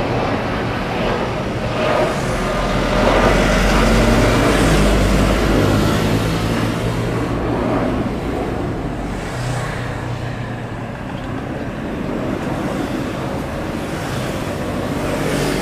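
Boeing 787-8 jet engines at takeoff thrust: a loud, steady rumble with a low drone that swells a few seconds in and then eases off.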